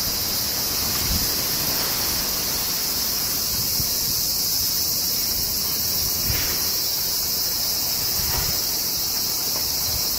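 A steady, high-pitched chorus of insects drones throughout. A couple of faint knocks come about six and eight seconds in.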